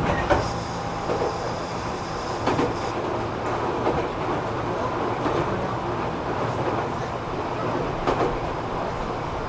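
Running noise inside a JR 205 series electric commuter car: a steady rumble of wheels on rail with traction-motor hum and the clack of rail joints.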